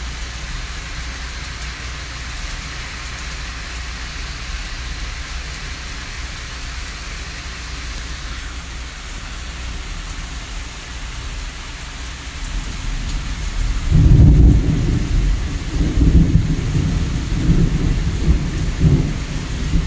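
Steady rain falling, then a long low rumble of thunder that builds about two-thirds of the way in and rolls on unevenly.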